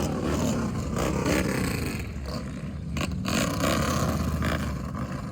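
Motorcycle running at road speed, its engine a steady low drone under wind rushing and buffeting over the microphone.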